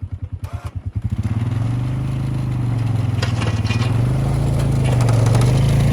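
Vehicle engine plowing snow: it chugs at low speed, then about a second in speeds up and runs steadily under load, its pitch wavering, with some scraping from the plow pushing snow.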